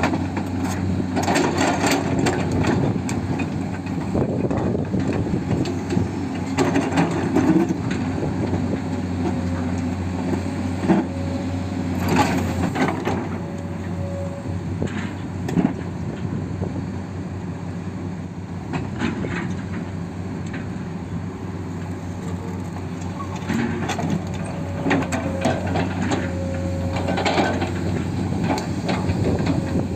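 Small electric gear motors of radio-controlled toy construction machines (bulldozer and dump truck) whining as they work, with repeated scraping and crunching of dirt and stones.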